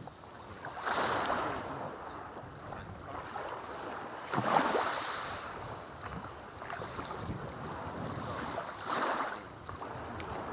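Sea waves washing in on a beach, with three louder surges of surf a few seconds apart.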